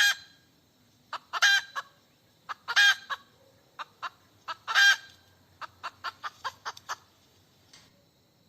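A hen cackling: short clucks building into a louder drawn-out squawk, four times over, then a quick run of short clucks, about four a second, that trails off.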